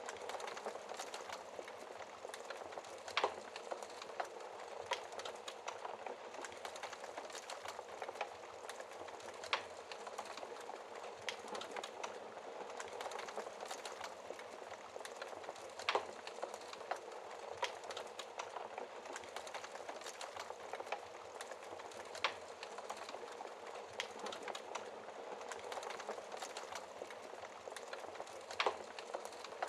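Wood fire crackling in a fireplace: a steady hiss of burning with many small pops and snaps, and a few sharper, louder pops spaced several seconds apart.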